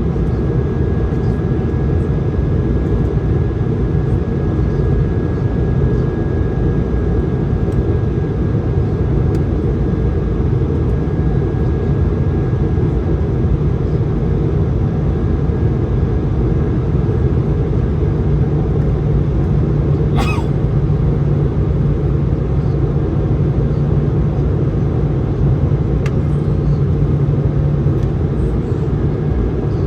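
Steady low rush of airflow and engine noise inside the cabin of an Airbus A220-100 in flight. A low hum strengthens partway through, and there is a single brief click about twenty seconds in.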